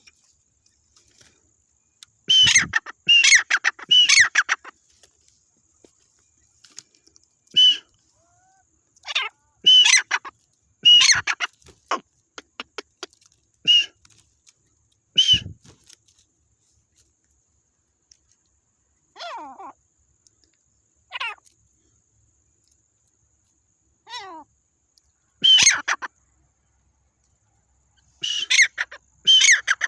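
Irani teetar partridge calling in short, sharp, falling notes, given in clusters of two or three with pauses of a second or more between them, and breaking into a rapid run of calls near the end.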